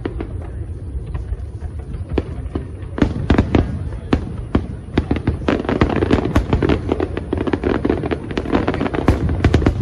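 Aerial fireworks going off: a string of sharp cracks and bangs over a steady low rumble, thickening into dense rapid crackling about halfway through.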